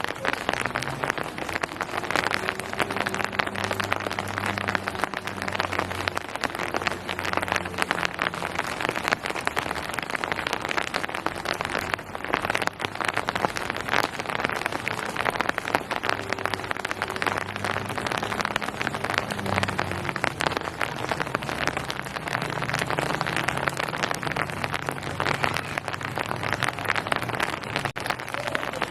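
Steady rain falling on hard surfaces, a dense hiss of countless individual drop hits. A faint low hum swells and fades twice beneath it.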